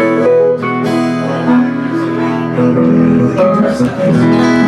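Live country band playing an instrumental passage between sung lines, led by a strummed acoustic guitar with held notes from the other instruments over it.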